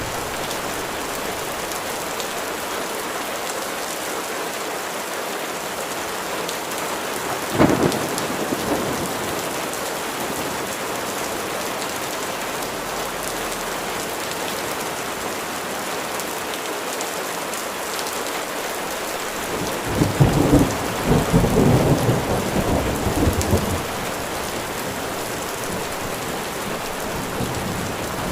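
Steady rain falling, with a sharp crack of thunder about eight seconds in and a loud rolling rumble of thunder from about twenty to twenty-four seconds.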